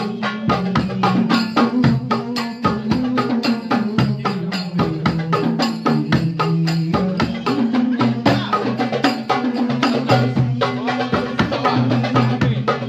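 Darbuka goblet drums of a banjari ensemble playing a fast, dense rhythm of many rapid strokes.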